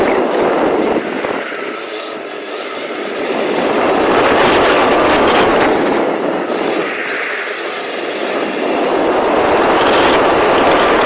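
Rlaarlo XBS radio-controlled car driving: a rough, rumbling noise of motor and tyres that eases off twice and picks up again.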